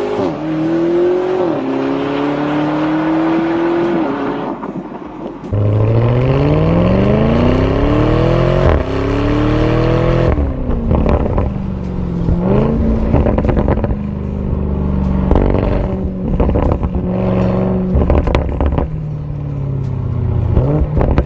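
Lamborghini Urus twin-turbo V8 running through a Fi EXHAUST valvetronic cat-back exhaust, accelerating hard: the pitch climbs and then drops back at each upshift. About five seconds in it turns suddenly louder and deeper. Later it holds a steadier drone with crackling pops.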